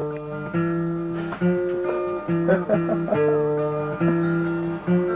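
Acoustic guitar playing a slow chord progression, a new chord struck about every second and left to ring.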